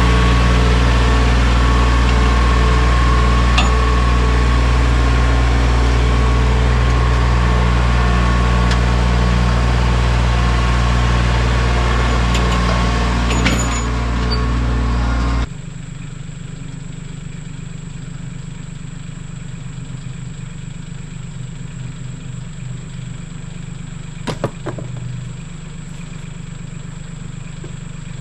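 Mahindra 1626 sub-compact tractor's diesel engine running steadily. About halfway through it suddenly becomes quieter and duller, and a few light knocks come near the end.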